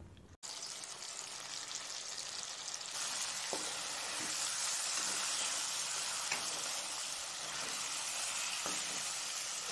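Marinated chicken pieces sizzling in a little oil in a kadai as a spoon stirs them, the frying stage after the cooking water has boiled off. The sizzle grows a little louder about three seconds in, with a few faint clicks.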